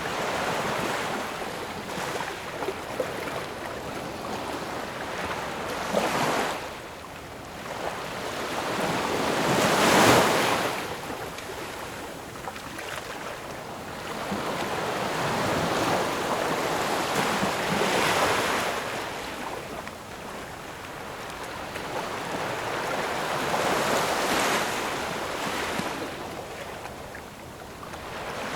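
Ocean waves breaking and washing onto the shore, swelling and falling every several seconds. The largest wave comes about ten seconds in.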